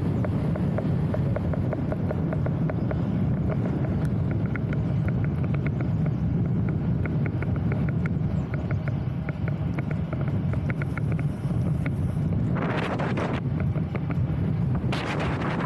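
Strong wind buffeting the microphone as a steady low rumble. A run of fast, even clicking runs through the middle for several seconds, and two short hissing rushes come near the end.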